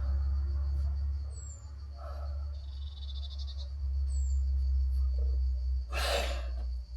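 Outdoor ambience: a bird gives a short, high, falling chirp twice, over a steady high insect drone and a constant low rumble. A brief rapid trill comes about three seconds in, and a short noisy rustle or clatter about six seconds in.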